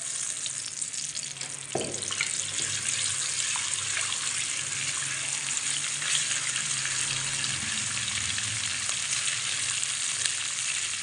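Ginger-garlic paste and cumin seeds sizzling steadily in hot oil in a stainless steel karahi while being stirred with a spatula. The sizzle grows louder about two seconds in.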